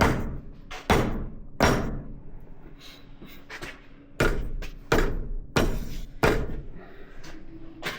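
Repeated dead-blow hammer strikes, about seven hard blows in two uneven bunches with a few lighter knocks between, tapping at a wheel bearing to drive it off an air seeder spindle. The bearing is stuck and not moving under the blows.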